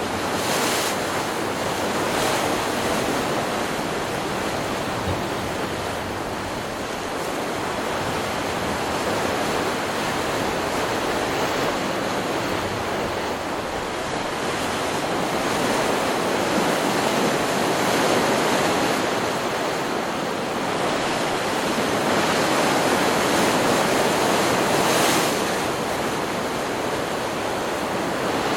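Stock recording of ocean surf: waves breaking and washing up in a continuous rush that swells and eases every several seconds, with a sharper hiss of a breaking wave near the start and again near the end.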